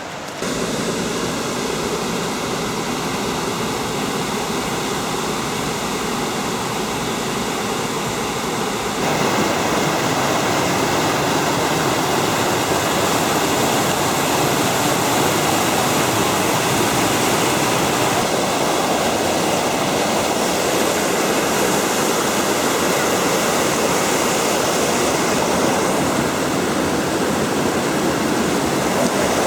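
Waterfall and river water rushing steadily, louder from about nine seconds in.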